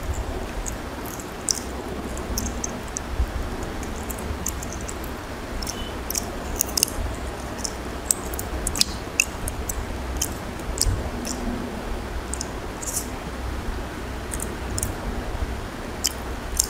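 Close-up chewing and eating by hand: irregular wet mouth clicks and smacks over a low steady hum.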